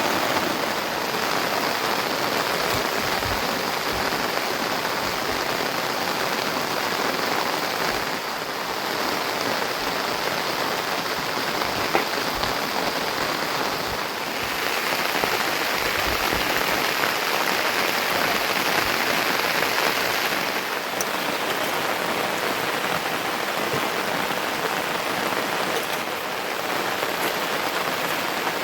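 Steady rain falling, an even hiss of drops, turning louder and brighter for several seconds in the middle.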